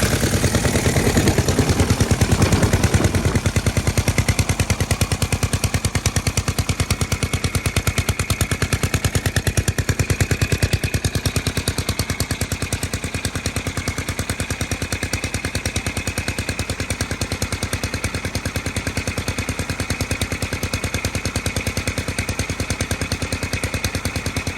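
Mid-1920s 6 hp Bean spray pump engine running with a steady, even chug of rapid exhaust beats. It is a little louder and heavier in the first few seconds, then settles to a steady run.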